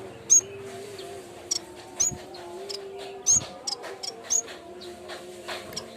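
Yellow-bellied warbler (cikrak bambu) calling: a run of short, sharp, high chirps at irregular intervals, about a dozen in six seconds. A faint steady low hum runs underneath.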